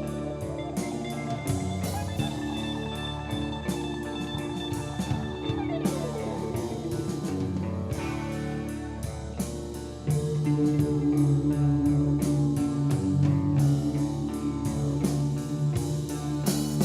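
Alternative rock band playing live on electric guitar, bass and drum kit. The band gets louder and heavier about ten seconds in, with strong bass notes.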